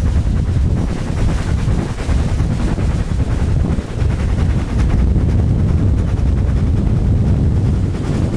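Wind buffeting a microphone held out of the window of a moving railway passenger coach, over the steady low rumble of the train running on the track.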